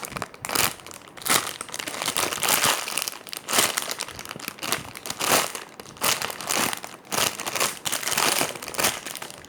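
Plastic crinkling in irregular bursts as a squishy toy is handled and squeezed.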